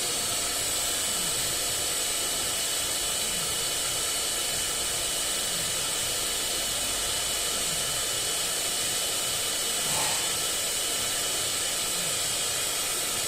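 CNC lathe with autoloader running: a steady machine whir and hiss, with faint low sweeps that fall in pitch about once a second and a slight bump about ten seconds in.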